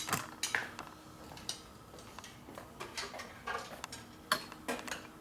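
Scattered light metallic clicks and taps of a bent metal line and tools being handled and fitted against a motorcycle, the sharpest right at the start and about four seconds in.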